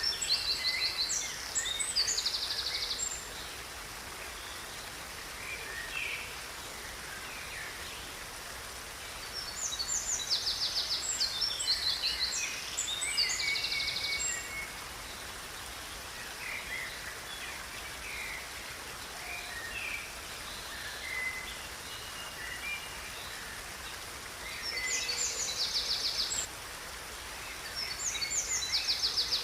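Songbirds singing in bouts of rapid, high trilled phrases and chirps, with quieter calls in between, over a steady background hiss.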